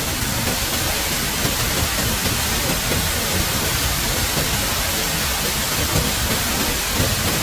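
Steady, even rushing of water, unchanging and with no separate events.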